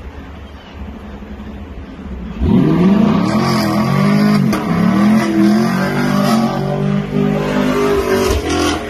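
Chevrolet Camaro doing a burnout: the engine rumbles low, then about two and a half seconds in it revs up sharply and is held at high revs, the pitch rising and falling, while the rear tyres spin and smoke.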